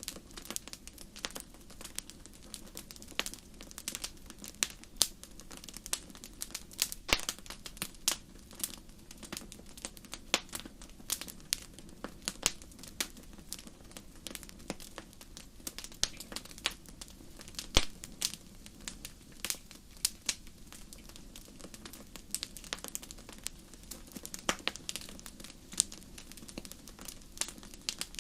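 Wood fire crackling: irregular sharp pops and snaps, a few of them loud, over a low steady hiss.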